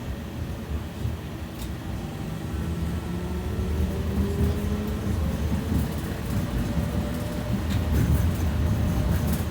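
BKM 60102 tram running on its rails: a steady low rumble with a motor whine that rises slowly in pitch, and a few light clicks.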